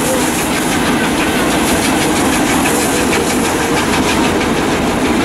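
A goods train of wagons rolling past on the rails, the wheels clattering in a steady rhythm.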